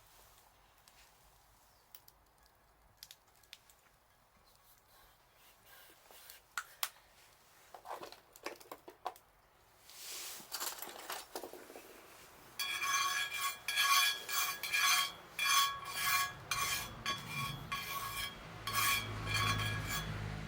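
Metal cookware and utensils clinking: scattered clicks and knocks, then a long run of quick ringing metallic strikes in the second half.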